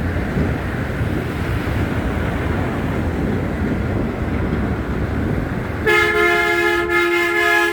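Steady rumble of wind and traffic, then about six seconds in a vehicle horn gives one long two-tone blast of nearly two seconds that stops suddenly.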